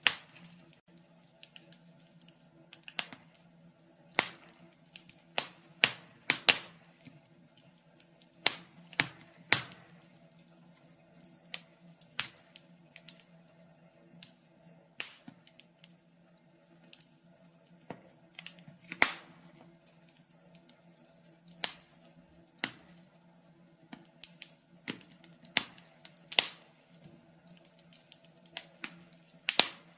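Burning logs crackling in a fireplace: irregular sharp pops and snaps, a few much louder than the rest, over a faint steady low hum.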